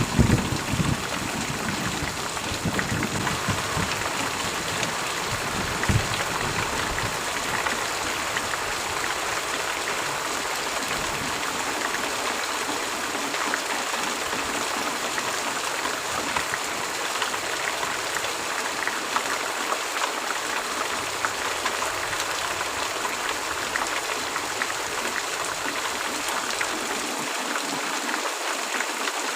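Heavy rain falling in a steady, even hiss. The last of a thunder rumble fades out in the first second or so.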